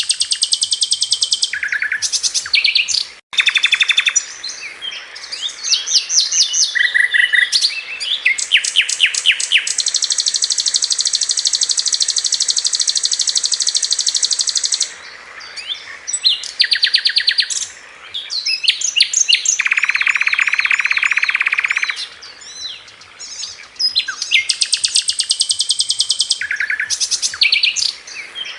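Sikatan londo flycatcher song: fast, rattling trills and rapid stuttering note series, shot-like 'tembakan' phrases. A long, even high trill runs for about five seconds in the middle, and a lower trill follows later.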